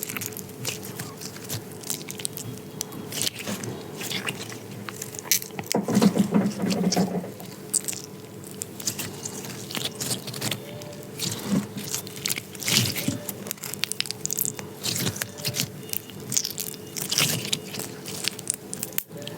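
Hands squishing and pressing slime close to the microphone, making dense, irregular sticky clicks and crackling pops, with a louder, deeper squish about six seconds in.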